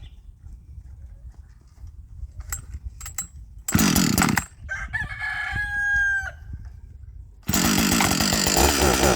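Husqvarna 555 two-stroke chainsaw being restarted after refuelling: it fires briefly about four seconds in, then catches and runs loudly for the last couple of seconds. A rooster crows in between.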